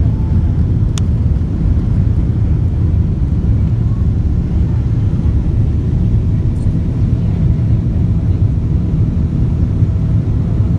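Steady low rumble of a Boeing 777-200ER in flight, engine and airflow noise with a faint steady hum above it.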